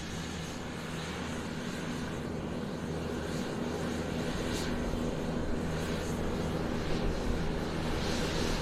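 Light propeller airplane's engine droning steadily, growing gradually louder as it comes nearer.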